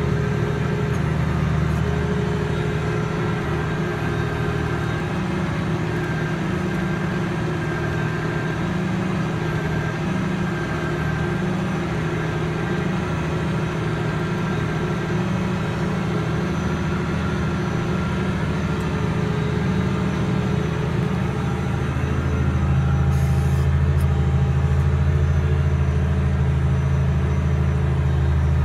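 Valtra T193 tractor's diesel engine running steadily. About three quarters of the way through, its low note grows louder and steadier.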